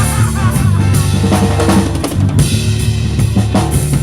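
Band playing an instrumental passage driven by a drum kit, with kick, snare and rimshot hits over a steady bass line.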